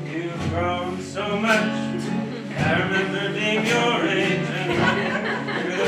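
Acoustic guitar strummed about once a second, with a singing voice over it.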